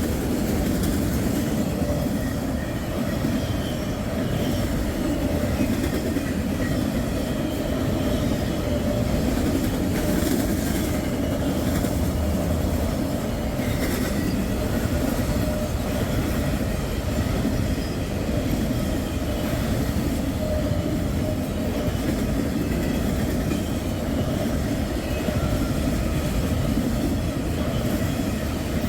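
Long freight train rolling past close by: a steady rumble and clatter of freight cars' wheels on the rails, with a faint, steady wheel squeal.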